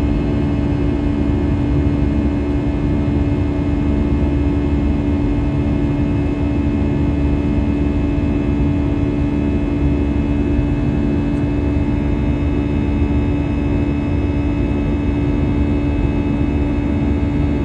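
Airbus A320-200 cabin noise: a steady engine drone with one strong constant hum tone over a low rumble, heard from inside the passenger cabin.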